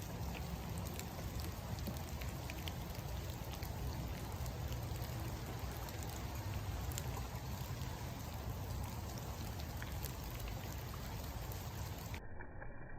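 Steady rain falling, with scattered ticks of single drops over an even hiss and a low rumble underneath. About a second before the end the sound changes abruptly to a duller noise with the hiss gone.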